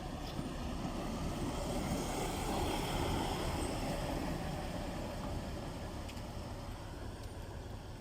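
A vehicle passing by: a rushing noise that swells to its loudest about three seconds in and then fades away.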